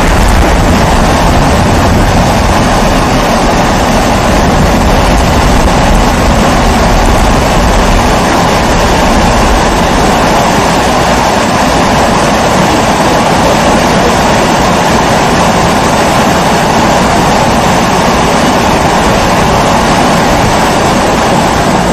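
Pressure kerosene stove (primus-type babour) burning with a loud, steady rushing noise. A low rumble underneath fades about eight seconds in.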